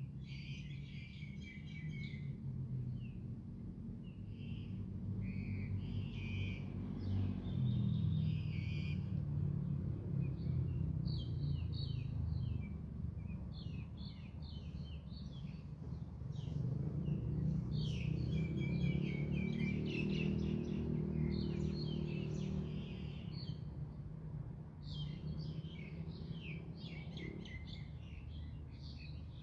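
Birds chirping and singing in short, repeated trilled phrases. Underneath runs a low droning hum with a steady pitch, which grows louder twice, about a quarter and then two thirds of the way through.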